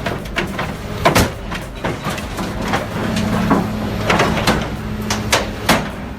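Heavy diesel machinery running steadily while metal clanks and bangs sound at irregular intervals, about ten sharp knocks over the stretch. This fits a bulldozer being torn apart for scrap.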